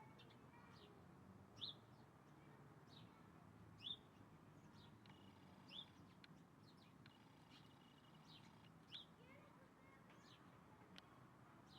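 Birds chirping faintly: a scatter of short, quick notes falling in pitch, with four louder chirps spaced a few seconds apart.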